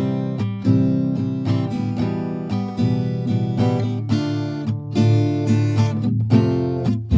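Background music of strummed acoustic guitar, with a run of plucked notes.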